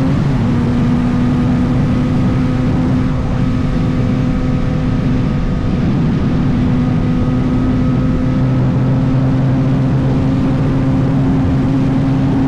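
Motorcycle engine running at a steady cruise over a continuous rushing noise. Its pitch dips slightly just after the start, then climbs slowly.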